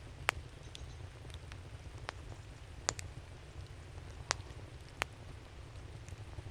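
Wood fire crackling: sharp, separate pops and snaps every second or so, the loudest about a third of a second in and again near the three-second mark, over a steady low rumble.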